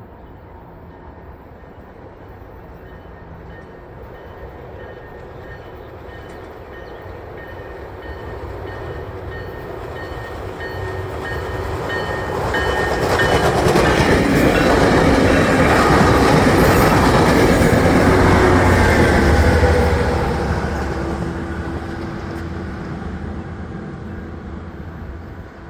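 A Tri-Rail commuter train approaching and passing a grade crossing. Its rumble and the wheels on the rails build over about twelve seconds to a loud peak, hold for several seconds, then fade as it moves away. A crossing bell rings steadily under the approach.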